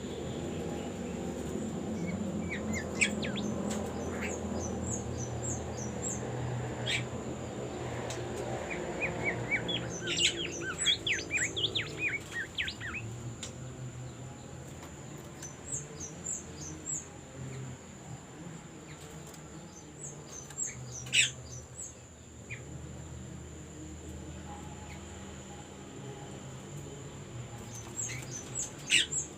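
Bimoli bird singing in scattered bursts of quick, high chirps and short trills, the busiest burst about ten seconds in, over a steady high-pitched whine.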